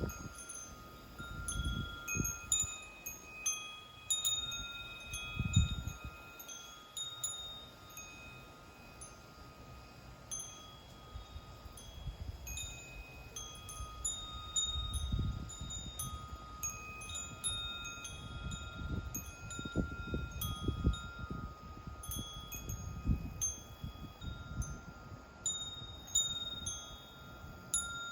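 Wind chimes ringing in the breeze: several clear tones struck at irregular moments and left to ring on, overlapping. Occasional low rumbles come and go beneath them.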